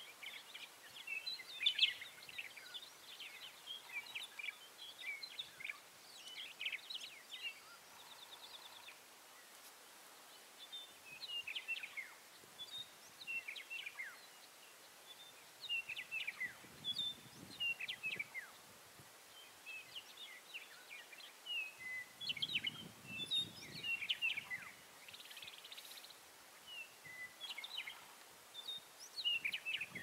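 Small birds calling outdoors: many short, high chirps and twitters in loose clusters, with brief quiet gaps between. A few brief low rumbles come in after the middle and again later.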